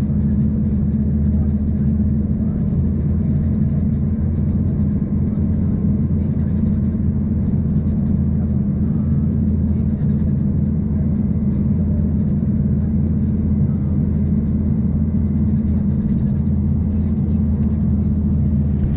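Steady low cabin drone of an Embraer ERJ-140 in flight: airflow over the fuselage and its rear-mounted Rolls-Royce AE3007 turbofans, unchanging throughout.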